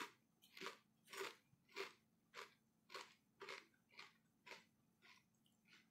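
Chewing a mouthful of Zapp's Voodoo kettle-style potato chips: a regular run of crisp crunches, about two a second, growing fainter near the end.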